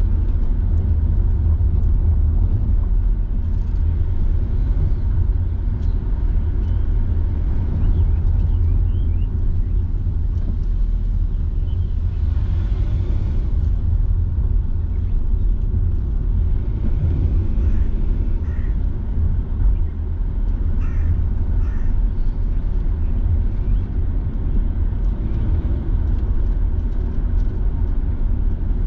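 Car driving along, a steady low rumble of engine and tyres on the road, with a few faint high chirps partway through.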